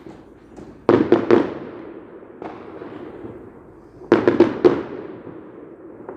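Fireworks going off in quick clusters of sharp bangs. Three come about a second in, one about two and a half seconds in, and four more about four seconds in, each trailing off in an echo.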